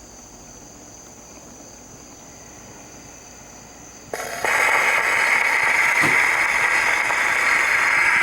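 Victor type 3 horn phonograph: a few seconds of faint steady background while the turntable turns, then about four seconds in the steel needle drops onto the shellac record and loud surface hiss from the lead-in groove plays through the horn.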